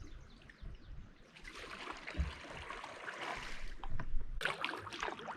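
River water rushing and splashing around a kayak, swelling about one and a half seconds in, with wind buffeting the microphone.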